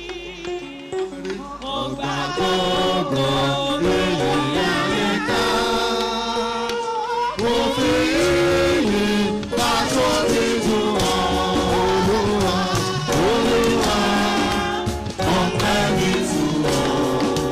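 Gospel singing by several voices with instrumental accompaniment. The accompaniment fills out with a heavy bass about seven seconds in.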